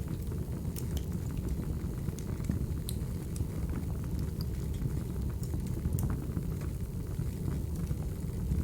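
Wood fire crackling: a steady low rush of burning logs with scattered sharp pops and crackles.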